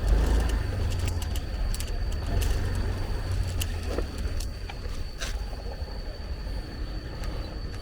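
Wind rumbling on the microphone during a motorbike ride, with a thin steady high-pitched tone and a few light clicks.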